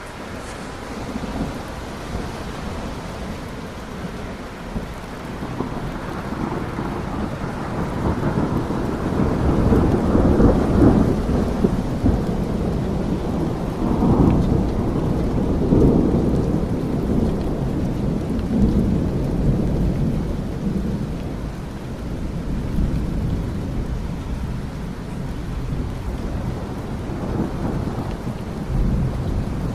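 Thunderstorm: steady rain with a long rolling rumble of thunder that builds about a third of the way in, is loudest near the middle and slowly dies away.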